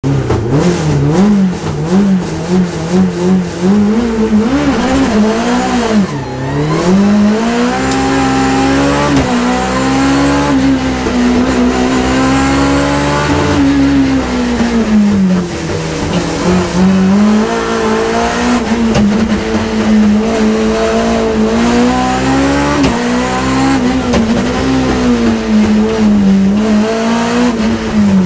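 BMW E30 M3 rally car's four-cylinder engine heard from inside the cabin, driven hard on a stage: low and uneven at first, then revving up to about 8,400 rpm, its pitch climbing and dropping back again and again through gear changes and lifts for corners.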